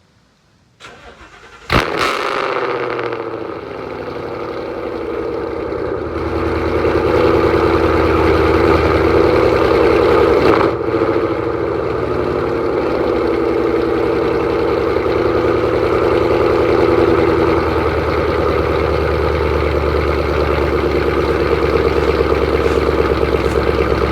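Ford Mustang GT (S550) 5.0 Coyote V8 with long-tube headers and a Borla exhaust, cold-starting: a short crank about a second in, then the engine catches with a loud flare and settles into a loud, steady idle.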